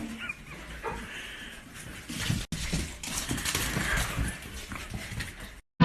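A dog making a few short, soft whines over low handling and rustling noise.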